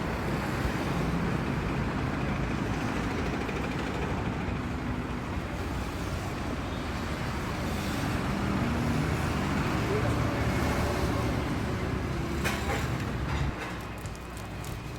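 Steady background hum of traffic with indistinct voices, a few clicks near the end, then the sound drops a little quieter.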